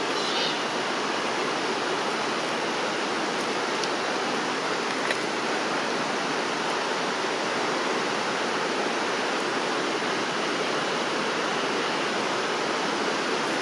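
Steady rush of flowing water from a mountain stream, an even hiss with no rhythm or change.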